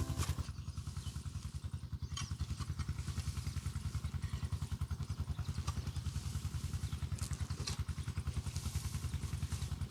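A small engine running steadily, heard as a low, even pulse of about eight beats a second.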